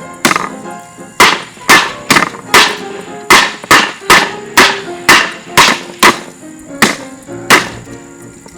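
About fifteen hard blows, roughly two a second, striking a Mainstays hugger ceiling fan, each hit followed by a short metallic ring.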